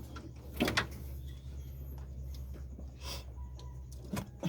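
A few short knocks and clicks of parts or tools being handled, the loudest about a second in and another near the end, over a steady low hum.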